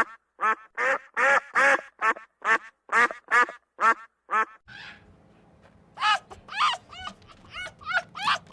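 Ducks quacking in a rapid, loud series, about three calls a second. About halfway through, the sound cuts to a quieter recording with a low steady hum, and a second run of shorter fowl calls starts about six seconds in.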